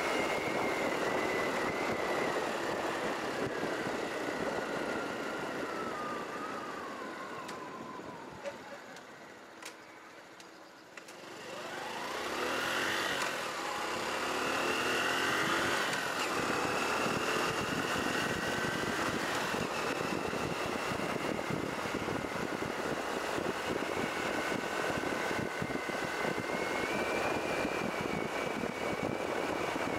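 Honda Cross Cub 110's small single-cylinder engine running under a steady rushing noise. The engine note falls away as the bike slows, to a quiet low about ten seconds in, then climbs again as it accelerates and settles into steady cruising.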